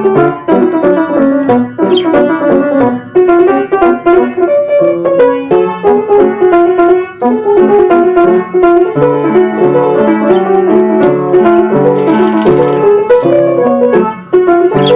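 Piano music playing without a break: a flowing melody over lower chords.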